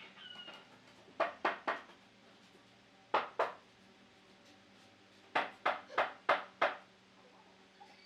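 Sharp taps struck in quick runs, about four a second: three, then two, then five, each with a short ring-out, typical of a tool striking wood during hand work. A faint short squeak comes right at the start.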